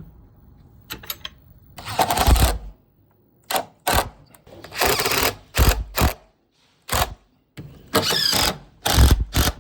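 A string of short power-tool bursts, about ten in quick succession, each under a second long, with abrupt silent gaps between them.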